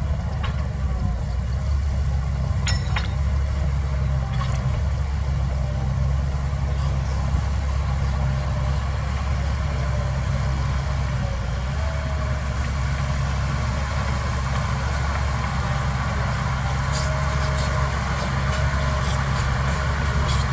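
Heavy diesel engine of earthmoving machinery running steadily, a low drone with a few short clanks.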